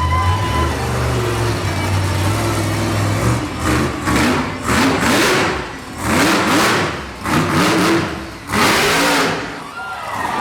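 Monster truck engine revving hard in repeated surges, a few throttle blips a second or two apart after a steadier low-pitched run at the start.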